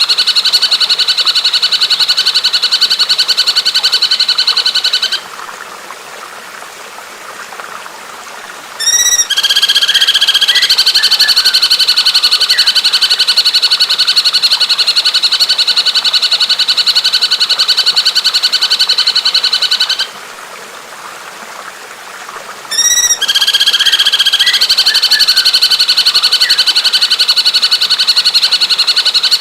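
A bird's long, very rapid, even trill, stopping twice for a few seconds and starting again each time with a short rising call. It is a recorded bird song played as training song for a caged white-rumped shama.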